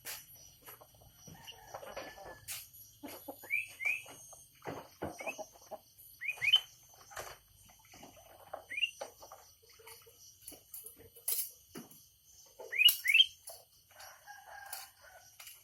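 Birds calling with short, rising chirps, often in quick pairs, over scattered clicks and rustles.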